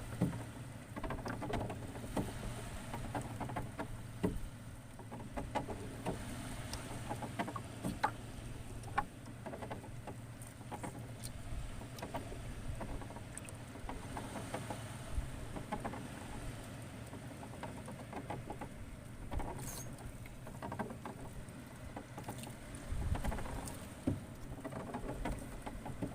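Shallow seawater lapping and sloshing, with many scattered small clicks, taps and splashes and a low rumble underneath.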